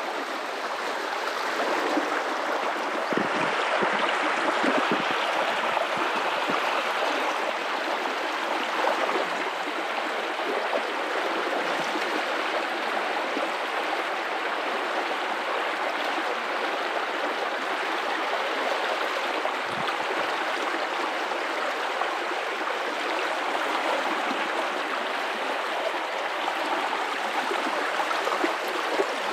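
River water flowing and rippling over rocks, a steady rushing with small gurgles.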